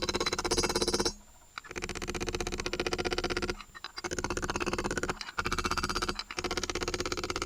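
Soviet-era drill running in several short spells with brief stops between them, its gearing giving a fast, even rattling whir.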